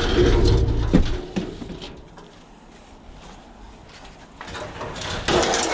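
Handling noise from a heavy piece of scrap being lifted out and moved, with a single sharp knock about a second in over a low rumble, then quieter shuffling.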